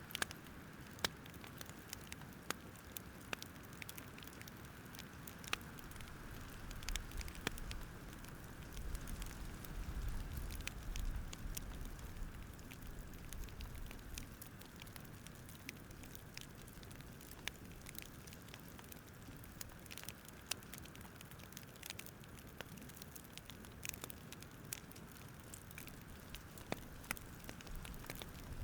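Wood fire crackling: irregular sharp pops and snaps over a soft steady hiss, with a low rumble that swells for a few seconds about a third of the way in.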